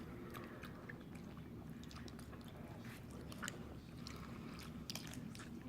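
Faint, scattered mouth clicks and smacks from someone sucking on a Toxic Waste sour hard candy.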